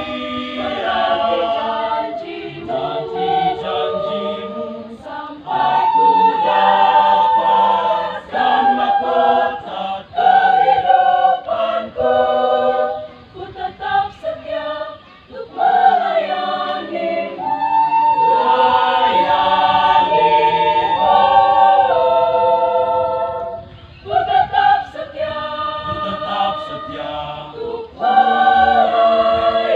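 Mixed church choir singing a hymn a cappella in several parts, with long held chords, one of them held for about six seconds in the middle.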